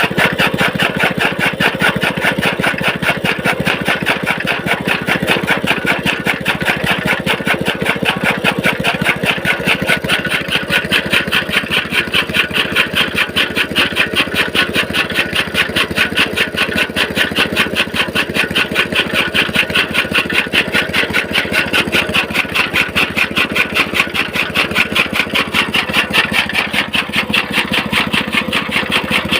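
Petrol engine running steadily, driving a toka fodder-chopping machine, with an even, rapid pulsing beat that holds steady throughout.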